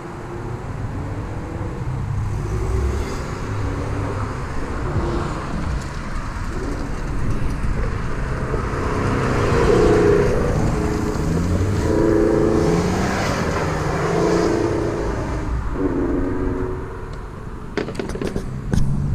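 A car accelerating hard past on the road, its engine rising in pitch again and again as it shifts up through the gears. It is loudest about halfway through as it goes by. A few sharp clicks come near the end.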